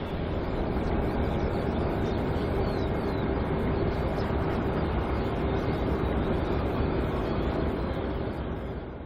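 Airbus A380-800 jet engines running: a steady rush of noise with a steady low hum through it, easing off slightly near the end.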